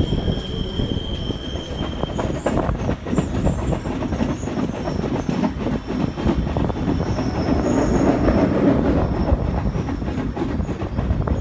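Electric multiple unit suburban train running, heard from on board: wheels rumbling and clacking over the track. A steady high-pitched squeal cuts off about two seconds in.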